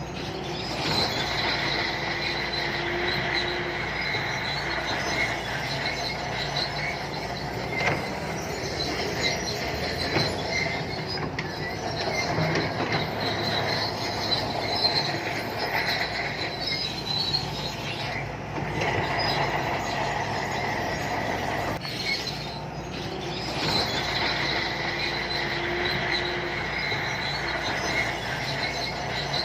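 SANTUI crawler bulldozer working, its diesel engine running under load with a continuous high-pitched squeal from the steel tracks. The squeal eases briefly twice.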